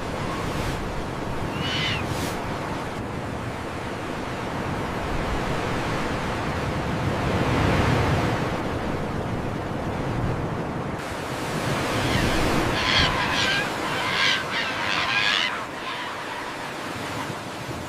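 Rainforest ambience: a steady rushing hiss, with a single bird call about two seconds in and a run of several bird calls for about five seconds from around eleven seconds in.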